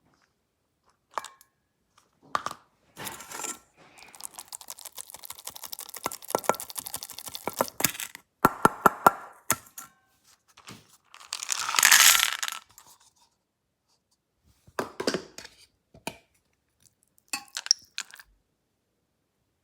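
Dog food being got ready: packaging crinkles and rustles, and hard pieces of dry dog food rattle and clink into a bowl in a quick run of clicks.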